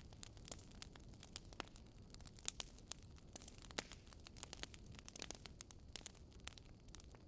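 Wood fire crackling in a fireplace: irregular sharp pops and snaps of burning wood over a low, steady rumble.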